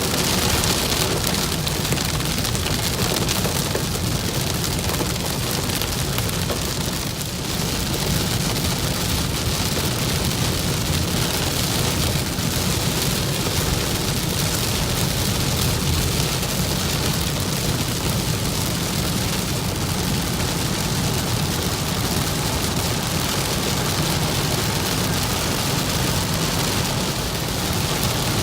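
Heavy rain pelting a moving car, heard from inside the cabin, with steady road noise underneath; the level dips briefly about seven seconds in.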